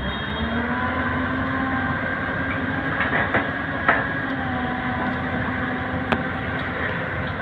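Heavy diesel engine of earthmoving machinery running steadily, its pitch shifting a little, with a few sharp metallic clanks about three, four and six seconds in.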